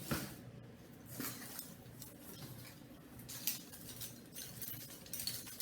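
Light, scattered clicks and rustles of small bird toys being handled and moved, with one sharper click midway.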